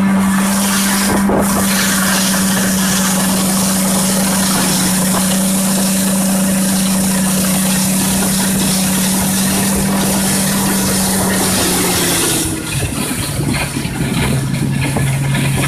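Engine of a vehicle travelling along a river, running steadily at speed, then easing off to a lower note about twelve seconds in.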